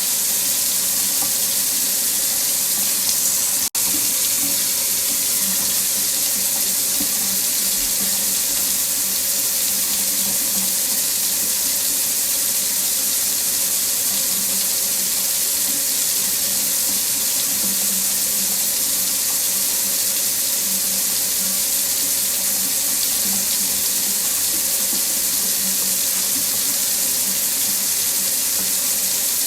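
Water running steadily from a faucet into a sink: an even, continuous hiss, broken once by a split-second gap about four seconds in.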